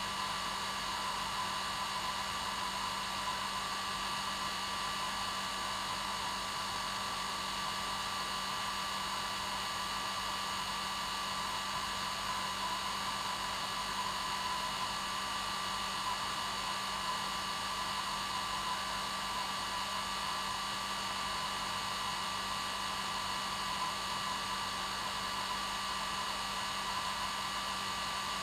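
Hair dryer running steadily: a constant blowing noise with a steady motor whine.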